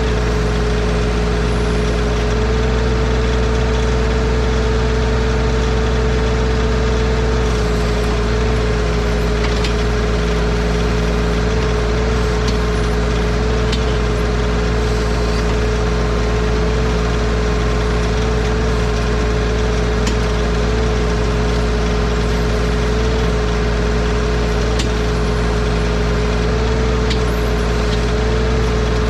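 Bad Boy 4035 compact tractor's engine running steadily under the backhoe, with a steady high whine over the engine's low drone.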